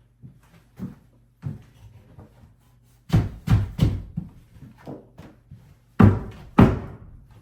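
A series of knocks and thumps from work on the vanity cabinet and its sink top: small taps early on, a cluster of three loud knocks a little past three seconds in, and two more loud ones near the end.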